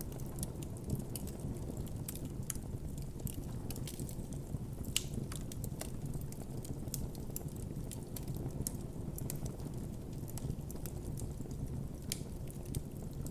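Wood campfire burning: a steady low rumble of the flames under frequent sharp crackles and pops, with a louder pop about five seconds in and another near the end.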